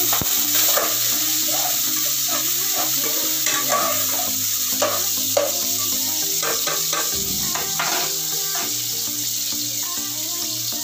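Chopped onion and garlic sizzling in hot oil in a pan, with a knock and scrape of the spatula pushing them off the plate just at the start. Background music plays throughout.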